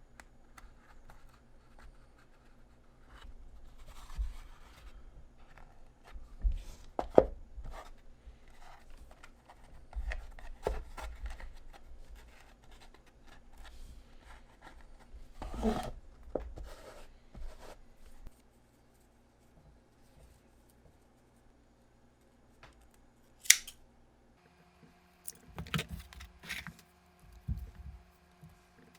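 Scissors snipping and materials rustling in hand craft work, with a few sharp clicks. Near the end a faint steady hum comes in under the handling sounds.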